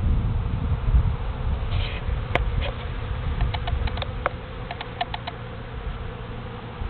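Honeybees buzzing in flight around the hive entrance, a steady hum over a low rumble, with a scatter of light ticks through the middle.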